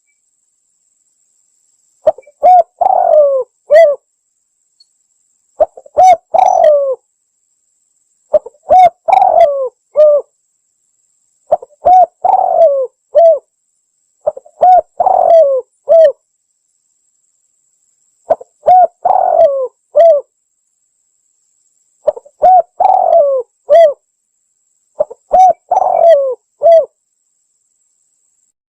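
Spotted dove (tekukur) cooing, played as a hunting lure call. It gives eight phrases of several low coos each, about one every three to four seconds, with silence between them.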